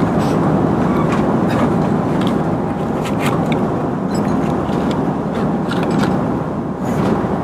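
Steady roar of an Airbus A330's cabin in cruise: engine and airflow noise, with a few faint light clicks over it.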